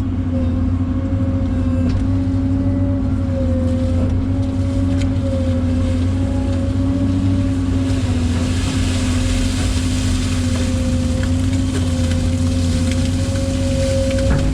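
A large engine running steadily: a low rumble with a constant whine held over it, and a hissing noise that swells about eight seconds in.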